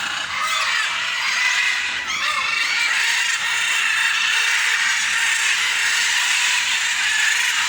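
A flock of small aviary birds chirping and chattering together, a dense, steady mix of many high, quick calls.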